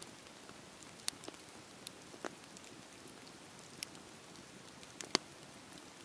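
Fireplace fire crackling: a steady soft hiss with scattered sharp pops at irregular intervals, the loudest a little after five seconds in.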